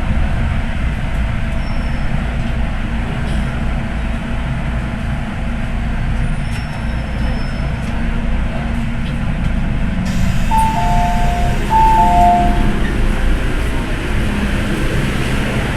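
MTR M-Train electric multiple unit running on the Tsuen Wan Line, a steady low rumble from the wheels and traction equipment. About ten seconds in, a two-note electronic chime, high then low, sounds twice.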